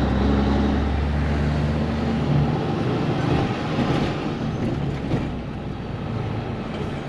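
Truck diesel engine running while driving, heard from inside a cabover Peterbilt 362's cab, with road and wind noise. The engine's steady low note drops away about two and a half seconds in, leaving mostly road and wind noise.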